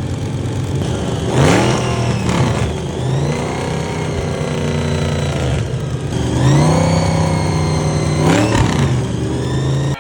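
Four supercharged Ford 4.6-litre modular V8s of a 1962 Ford Econoline drag truck running and being revved. Two short blips come about a second and a half and two seconds in. About six seconds in, a longer rev rises, holds for roughly two seconds, then drops back to idle.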